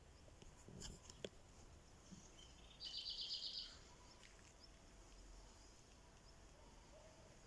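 A small bird's trill about three seconds in: a quick run of high repeated notes lasting under a second. A couple of faint clicks come about a second in.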